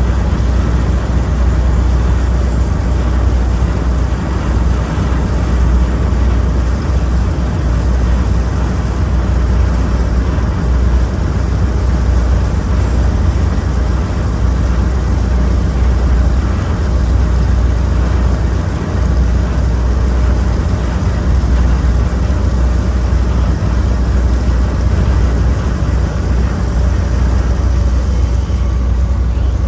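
Car ferry's engines running steadily under way, a loud continuous low rumble with a broad rushing noise over it.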